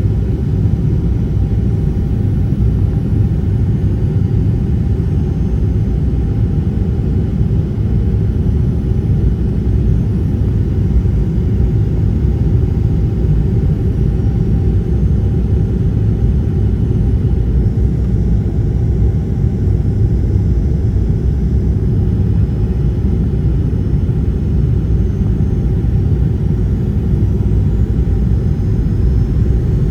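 Airliner cabin noise during the approach to landing: a steady, even rumble of engines and airflow heard from a window seat, with a faint rising whine near the end.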